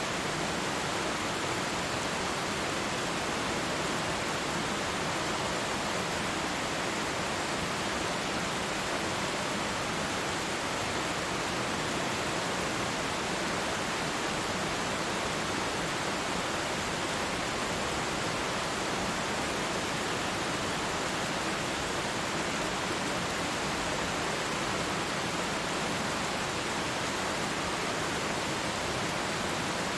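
Twin waterfall: an even, unbroken rush of falling water.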